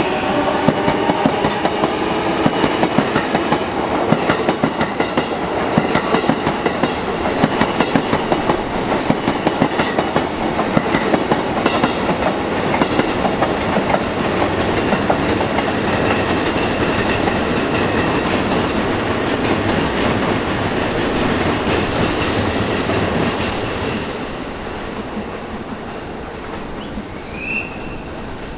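Electric commuter train running past on the adjacent track, its wheels clicking in a steady rhythm over rail joints, with a motor whine near the start. The noise drops off after about 24 seconds as the train clears, and a short rising squeak follows near the end.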